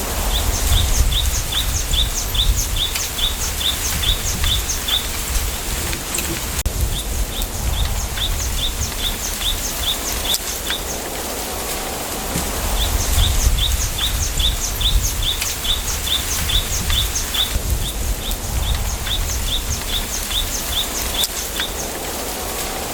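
Wind in a bamboo forest, the leaves rustling, with gusts rumbling on the microphone. Over it a bird repeats a quick high chirp about three times a second, in runs of several seconds with short breaks.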